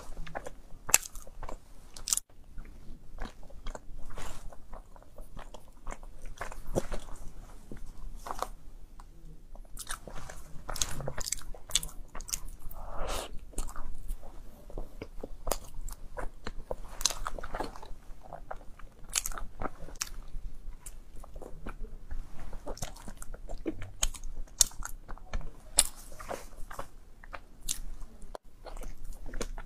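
A person biting and chewing a soft chocolate-filled bread roll: irregular short mouth clicks and smacks all through.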